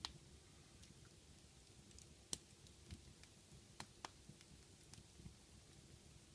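Faint wood fire in a fireplace crackling, with a handful of sharp, irregular pops and clicks over a low hum. The loudest pop comes about two seconds in.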